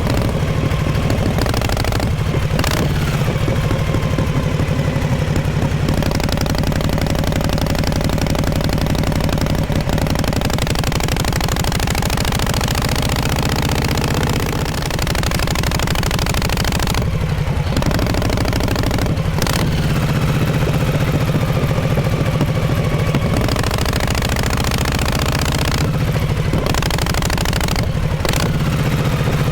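1948 Harley-Davidson Panhead V-twin exhaust running under way, its pitch rising and falling, with several short dips in the note where the throttle eases off.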